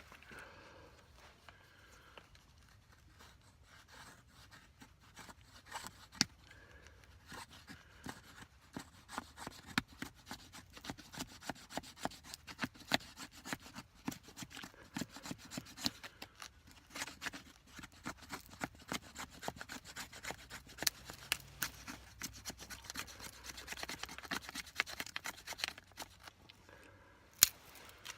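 Knife blade shaving and scraping dry deadwood into fine tinder: many quick, short scraping strokes that come faster and busier after the first several seconds. There is one sharp knock near the end.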